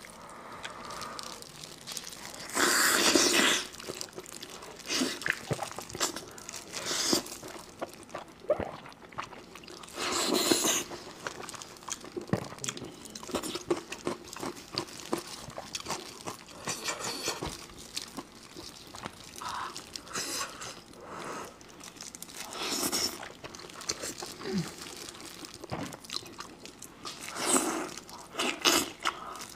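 Close-miked eating: biting, chewing and crunching meat pulled off a spicy sauced sheep's head, with gloved hands tearing at it. Louder bursts of biting come every few seconds between quieter chewing and clicks.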